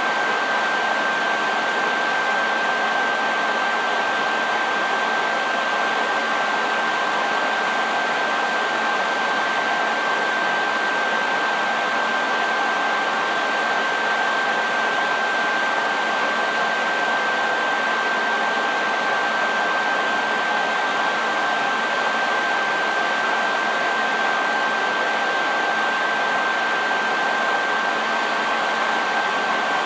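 Hair dryer running steadily, a constant rush of air with a steady high whine from its motor.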